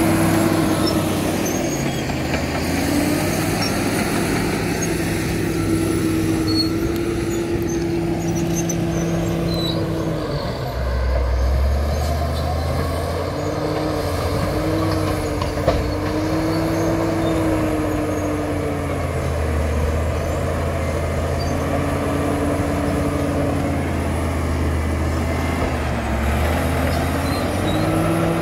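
Caterpillar D7 bulldozer's diesel engine working under varying load, its note dipping and recovering several times and dropping to a deeper drone around eleven seconds in and again from about nineteen to twenty-six seconds in. A faint high whine runs over it, and a single sharp knock sounds near the middle.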